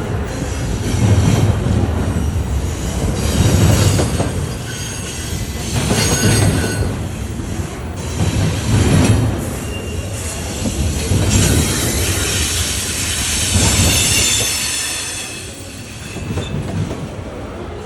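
Railroad cars rolling past with repeated low thumps from the wheels and a high metallic wheel squeal, strongest about two-thirds of the way through.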